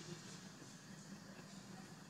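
Faint steady background hum and hiss, with no distinct sound event.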